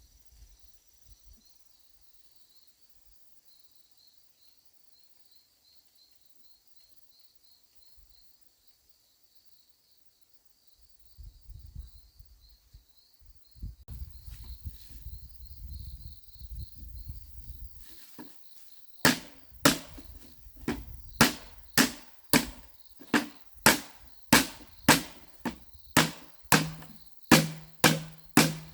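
Repeated sharp tool blows, about three every two seconds, start about two-thirds of the way in. They are typical of chopping or hammering while building a chicken coop. Before them there is faint insect chirping, then a stretch of low rumbling.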